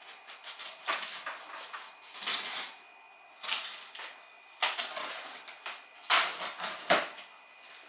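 Shipping box and its packing material being opened and handled: irregular bursts of rustling and scraping, with a sharp knock near the end.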